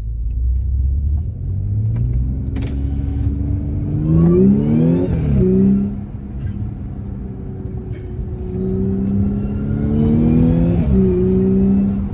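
Audi S5 fitted with an aftermarket titanium cold-air intake, accelerating hard. The engine note climbs in pitch for a few seconds, drops sharply at an upshift about five seconds in, then climbs again and drops at a second shift near the end.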